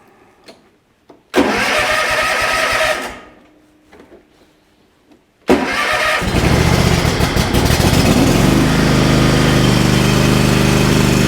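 Lawnmower engine being started: it fires for about a second and a half and dies, then catches on the second try about five seconds in and keeps running, settling into a steady run. It is being left to run until the tank is empty, to winterize the mower.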